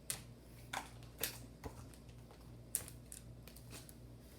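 A few light, sharp clicks and taps at irregular intervals, over a faint steady hum.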